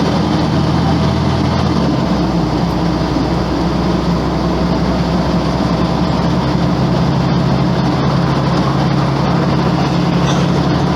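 Volvo B10M bus's mid-mounted six-cylinder diesel engine running steadily under way; its note drops a step about two seconds in.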